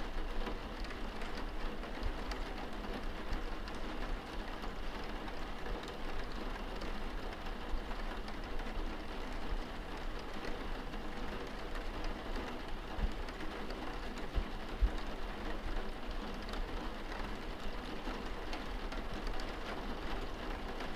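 Steady rain striking a window pane, heard from indoors, a constant hiss with scattered light drop taps and an occasional low thump.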